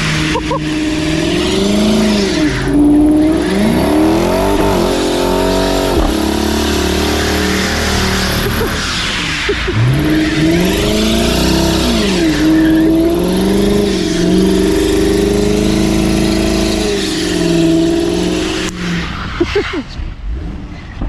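2013 Dodge Charger R/T's 5.7-litre Hemi V8 revving up and down again and again under hard throttle, over a steady hiss of tyres on the wet road. The revs drop away near the end.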